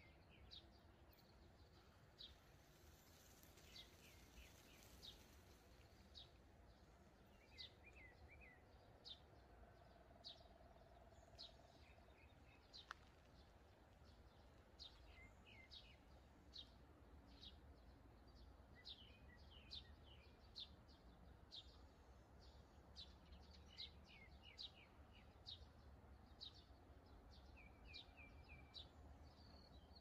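Faint small-bird chirps: short, high notes falling in pitch, repeated about once a second, with a few quick trills in between, over a low steady background rumble.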